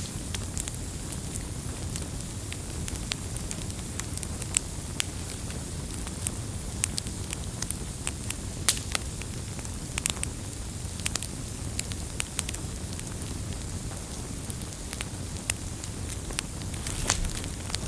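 Burning firewood crackling and popping over a steady low rumble of the flames, with irregular sharp snaps, a cluster of them near the end.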